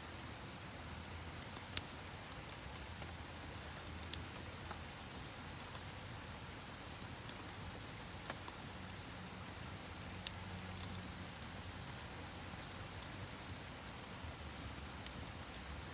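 Steady rain, an even hiss, with a few sharp ticks every few seconds; the loudest come about two and four seconds in.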